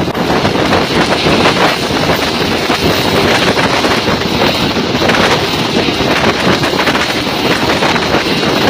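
Rescue helicopter running close by, its engine and rotor noise mixed with heavy wind buffeting on the microphone, steady and loud throughout.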